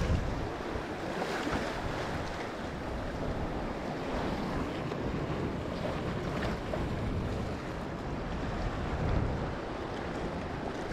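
Sea surf washing against rocks, with wind buffeting the microphone: a steady rush of noise.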